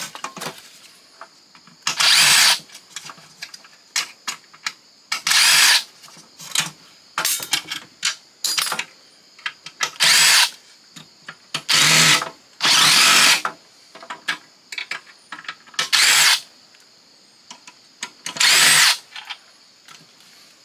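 Cordless power drill-driver running in about seven short bursts, backing out screws from a fax machine's internals. Small clicks and clatter of metal and plastic parts come between the bursts.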